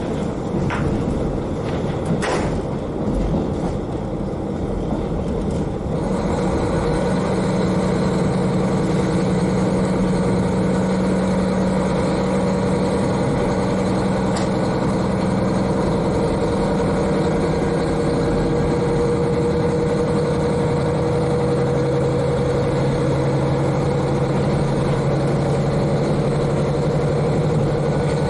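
KiHa 40 diesel railcar's N-DMF13HZI engine heard from directly above, running steadily as the railcar gets under way. After two sharp clicks in the first few seconds, it grows louder about six seconds in, and its pitch drops about two-thirds of the way through.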